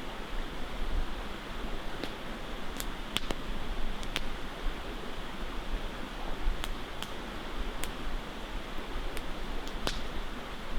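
Campfire crackling, with irregular sharp pops from the burning wood, over a steady rush of flowing river water.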